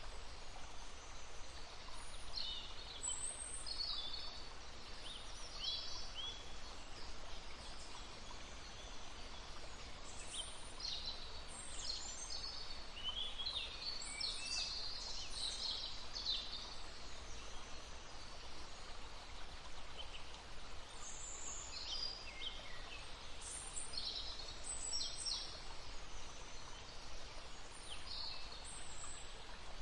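Songbirds singing and calling in short chirps and trills over the steady rush of a babbling brook. The birdsong pauses for a few seconds midway.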